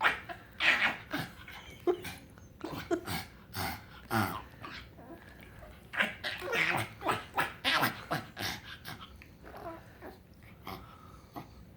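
A pug making its strange happy noises: a run of short, irregular grunts and breathy sounds mixed with pitched cries that slide up and down.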